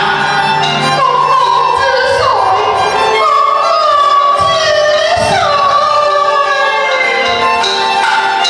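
Teochew opera music: a high melody line that holds long notes and slides between them over instrumental accompaniment.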